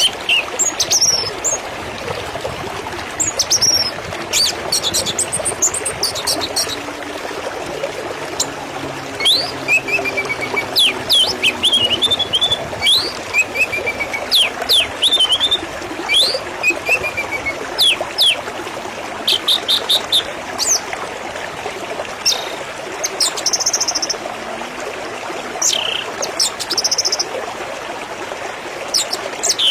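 Water trickling steadily while birds chirp and trill repeatedly all through, their short calls sweeping and rapidly pulsed.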